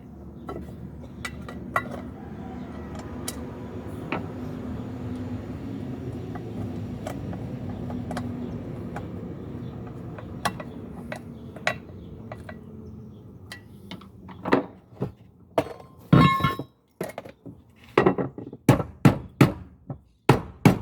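Work on a metal pot's handle fitting: a steady hum with scattered clinks, then from about two-thirds in a run of hammer blows on metal, quickening to about two a second near the end, with one ringing metallic clang among them.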